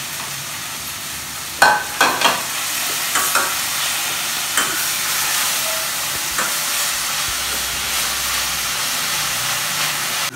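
Chopped fenugreek (methi) leaves sizzling in hot oil with ginger-garlic paste in a steel pan while being stirred with a spoon. A few knocks of metal on the pan come in the first couple of seconds, and a few more follow at spaced moments.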